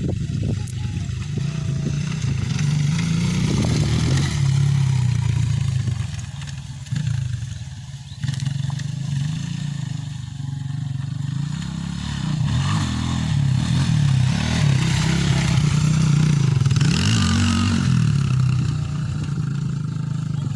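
Dirt bike engine running, its pitch repeatedly rising and falling as the throttle is worked on and off.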